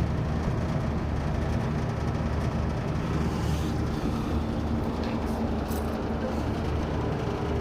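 Trane 25-ton packaged air-conditioning unit running, its compressor and fans giving a steady low hum and whooshing drone.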